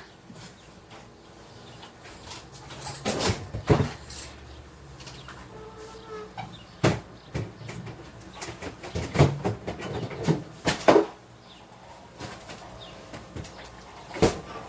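Kitchen handling clatter: irregular knocks and clicks of a container and things being moved about, as the pineapple juice is put away in the fridge. A short faint tone sounds about midway.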